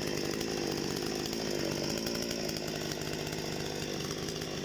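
Parma BP-058 two-stroke petrol chainsaw running steadily at a high, even pitch.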